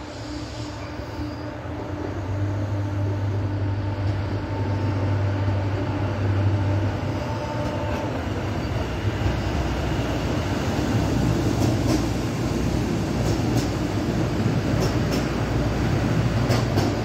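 Minuetto ALN 501 diesel multiple unit pulling into the station: a steady low diesel drone that grows louder as the train approaches. A few sharp clicks follow in the second half as the wheels cross rail joints.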